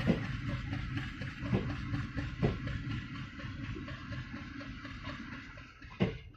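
Passenger train rolling along the track, a steady rumble with the clack of wheels over rail joints, gradually fading as it moves away. A sharp click sounds near the end.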